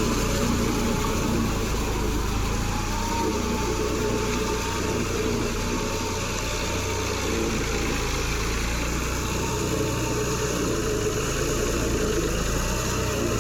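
John Deere 5310 tractor's three-cylinder diesel engine running at a steady speed.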